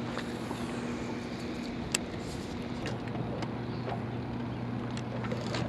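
A boat's motor running with a steady low hum under a constant wash of open-air noise, with one sharp click about two seconds in.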